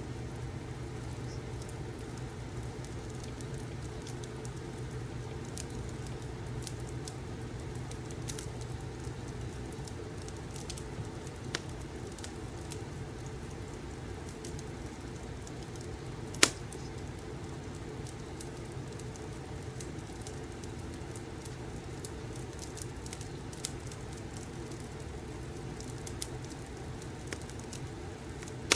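Fireplace ambience: a wood fire burning with a steady low rumble, scattered crackles and pops, and one louder pop about halfway through.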